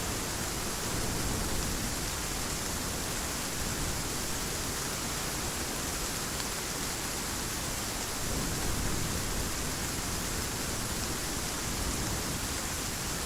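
Heavy rain falling steadily, an even hiss that swells slightly twice.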